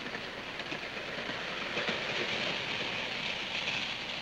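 Passenger train rolling past with a steady rushing noise and the clatter of its wheels over the rail joints, a little louder about two seconds in.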